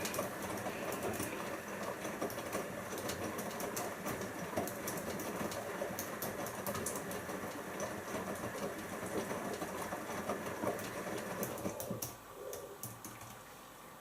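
Siemens iQ front-loading washing machine tumbling its wet load during the first rinse: water sloshing in the turning drum with frequent clicks and knocks. About twelve seconds in the drum stops and the sound drops to a quiet background with a few ticks.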